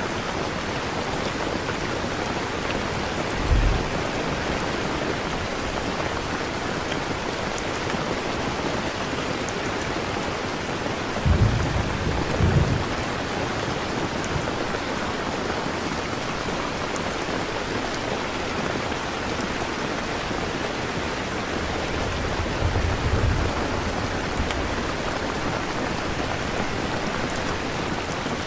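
Steady rain falling, with deep rumbles of thunder three times: briefly about three seconds in, then twice in quick succession around the middle, and again past two thirds of the way through.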